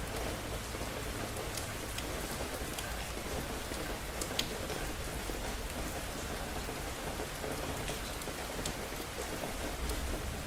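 Steady rain falling on hard surfaces, individual drops ticking sharply here and there, one louder drop hit near the middle. A low rumble sits under it at the start, fades within about two seconds, and returns near the end.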